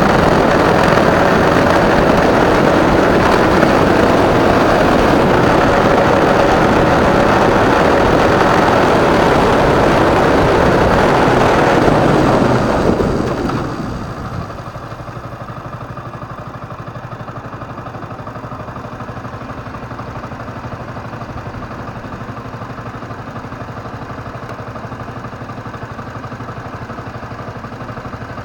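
Motorcycle riding, its engine mixed with loud wind rush; about halfway through the noise falls away and the engine settles into a steady idle.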